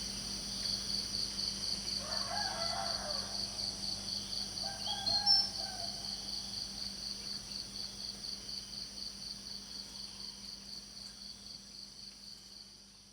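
Crickets chirping in a steady high pulsing trill, about four pulses a second. A rooster crows twice in the distance, about two and five seconds in. The whole ambience fades out toward the end.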